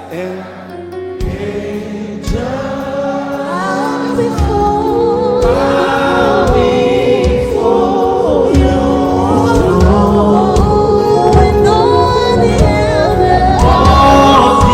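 Worship team and congregation singing a gospel worship song with a live band. It starts quiet, the bass comes in about a second in, and drums and voices build until the music is at full volume a few seconds later.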